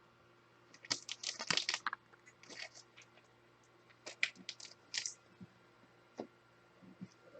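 Trading cards being handled and shuffled: faint crisp rustles and light clicks, coming in small clusters about a second in and again around four to five seconds in, with a few single ticks after.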